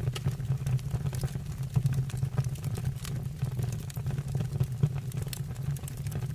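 Wood fire burning in a fireplace: a steady low sound of the flames with frequent small crackles and pops from the burning wood.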